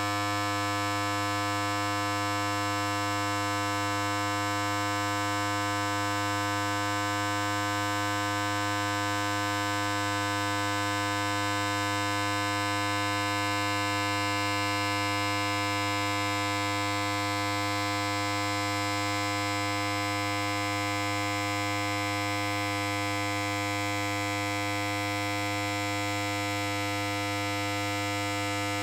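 Electric hair clipper running continuously with a steady buzz, its pitch and level unchanging.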